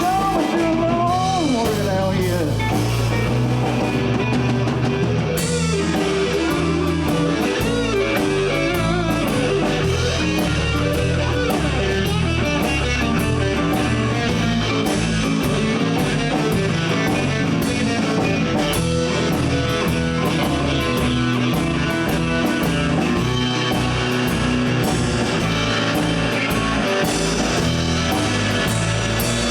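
Live blues band playing: electric guitar lead over bass and drum kit. The lead has bending notes near the start, and the cymbals tick more densely from about five seconds in.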